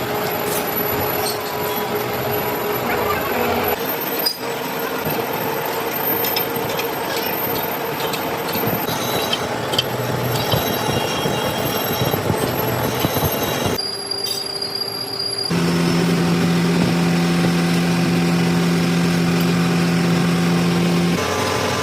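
Machine-shop noise from metalworking machinery cutting steel, with thin high steady tones over the noise. It breaks off and changes several times. From about three quarters of the way through, a machine motor hums steadily.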